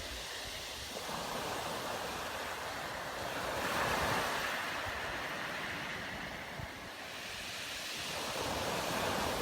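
Sea waves washing onto the shore, swelling up about four seconds in and again near the end, with wind noise on the microphone.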